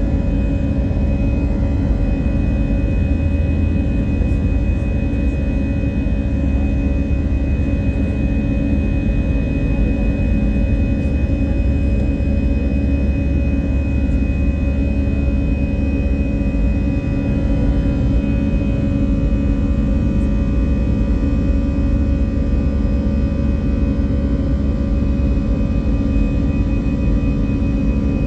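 Airbus A320 jet engines running at takeoff power during the climb. A steady, loud low rumble with a few constant high tones that do not change.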